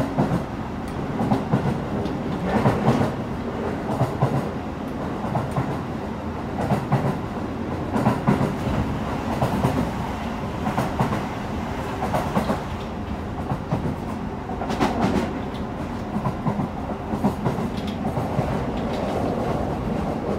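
Running noise inside a Keio 9000 series electric train car, by the gangway between cars: a steady rumble with irregular clacks over the rails.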